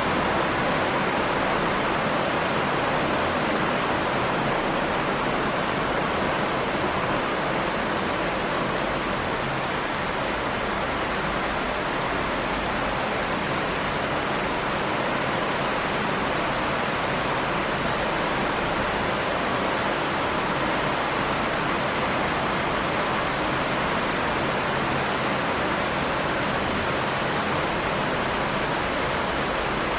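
Steady rain falling: an even, unbroken hiss of water with no thunder or other events.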